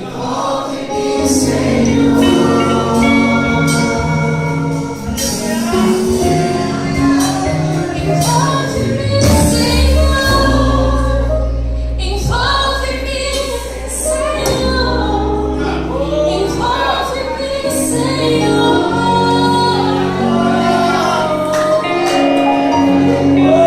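Choir singing a gospel worship song, with long held notes.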